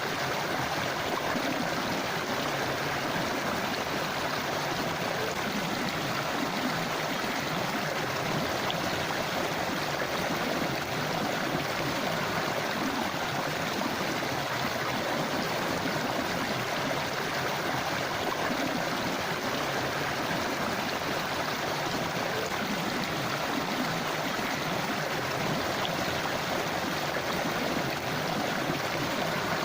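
River water flowing over rocks in a steady rushing, babbling stream sound, unchanging throughout.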